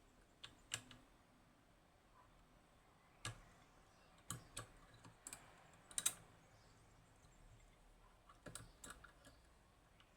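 Faint, scattered clicks of a pick and tensioner working the levers inside a Union/Chubb G110 five-lever lock, with the loudest click about six seconds in and a quick run of clicks near the end.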